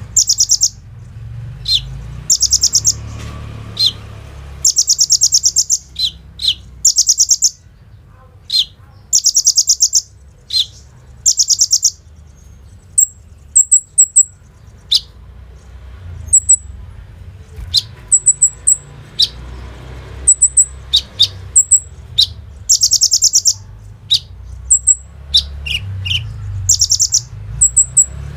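Olive-backed sunbird (kolibri ninja) singing hard: repeated rapid high trills about a second long, alternating with sharp single notes and short high chips.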